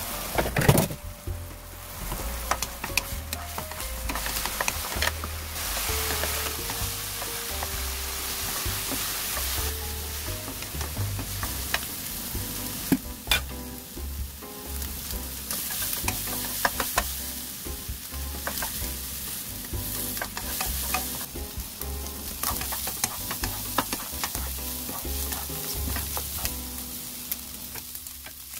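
Chicken gizzards, garlic cloves and green chilies sizzling in oil in a wok while being stirred, with many small clicks and scrapes of the utensil against the pan. There is a loud knock about a second in.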